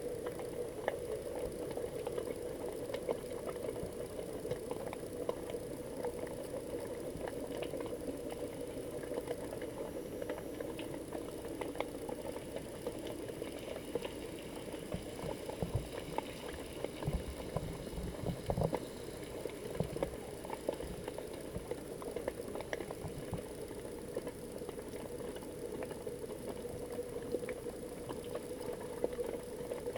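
Underwater sound picked up by an action camera in its waterproof housing: a steady muffled hum with scattered crackling clicks, and a few low thumps about halfway through.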